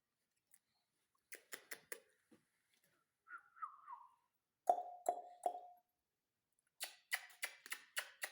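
Ringneck parakeet vocalising in short bursts. A quick cluster of clicks, then a brief whistle falling in pitch, then three low clucks, and near the end a rapid run of about seven clicks.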